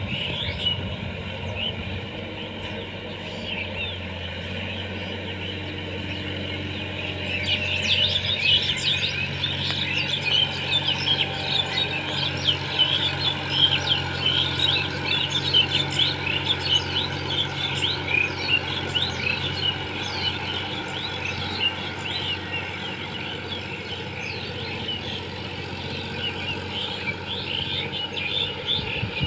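Many birds chirping busily from about seven seconds in, over a tractor engine running steadily at low revs, whose hum fades out about two-thirds of the way through.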